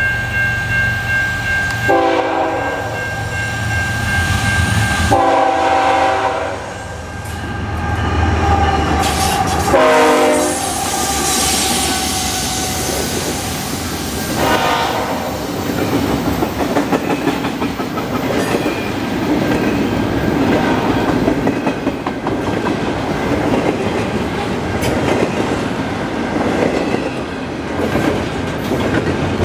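Freight train led by two GE ES44AC diesel-electric locomotives sounding its horn in several blasts for a grade crossing over the low run of the diesel engines, the horn dropping in pitch as the locomotives pass about ten seconds in. After that, double-stacked container well cars roll by with a steady clickety-clack of wheels over the rail joints.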